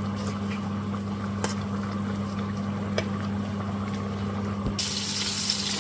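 A steady low hum with a few faint ticks, then, about five seconds in, food frying in a pan starts sizzling abruptly and keeps on.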